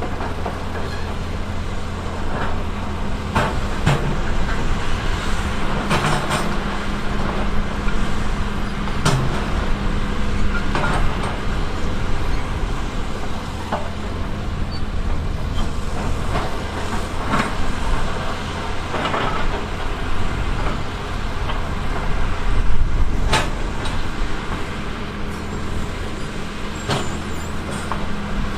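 Diesel engine of a heavy earthmoving machine running steadily, with irregular sharp clanks and knocks from the machine's work every few seconds.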